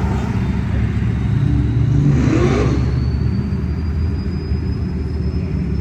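Car engines rumbling as cars cruise past on the street; one passes close about two seconds in, louder, its engine pitch rising and then falling away.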